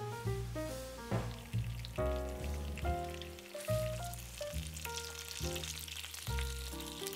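Food sizzling as it fries in a pan, the sizzle growing stronger about halfway through, over background music with a melody and a bass line.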